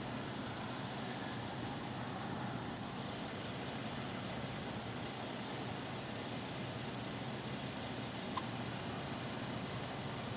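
Steady low hum of an idling engine under a background haze, with one faint distant pop about eight seconds in.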